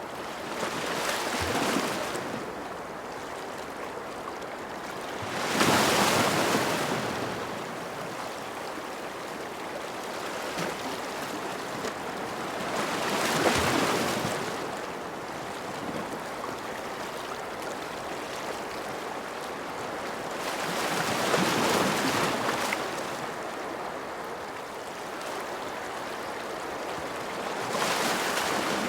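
Ocean waves washing ashore: a steady rush of surf that swells five times, roughly every seven seconds, as each wave breaks and draws back.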